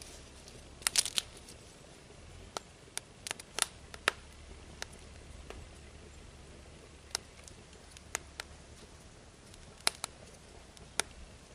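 Wood crackling and popping at irregular intervals as a Swedish torch ('Indian candle') log fire burns hard, with a low, steady rumble underneath.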